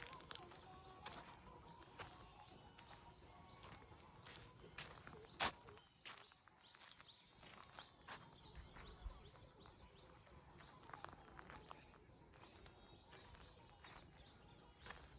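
Faint rural ambience: a steady high-pitched insect drone, like crickets, with many short falling chirps over it and one sharp click about five seconds in.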